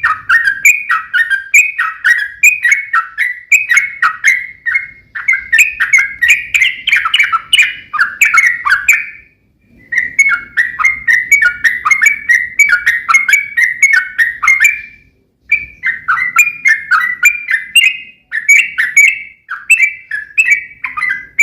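Yellow-vented bulbul (trucuk) singing a long, fast run of short chattering notes, about two a second, in three long bouts with brief pauses a third and two-thirds of the way through; this is the 'ropel panjang' lure song played to make other trucuk answer.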